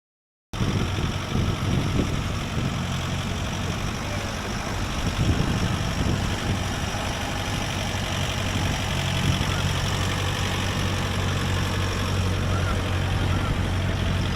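A motor vehicle's engine running steadily at low revs with a low, even hum. It starts abruptly about half a second in.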